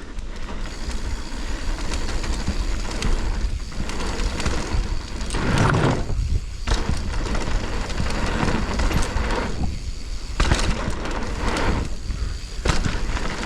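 Mountain bike rolling fast down a dirt trail: a steady rush of wind and tyre noise with the bike rattling, and a few louder clunks over bumps.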